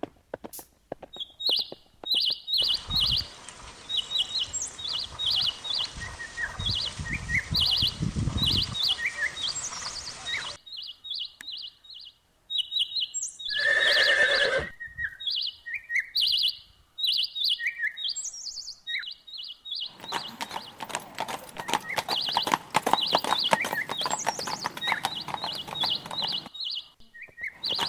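Small birds chirping in quick repeated notes, with a horse giving one short neigh about halfway through.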